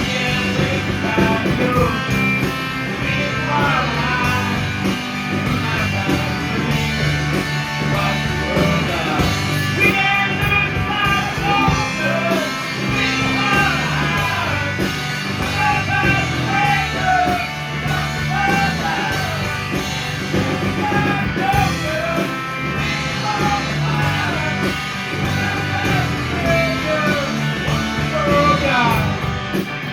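A rock band playing, with guitar and a singing voice, steady throughout.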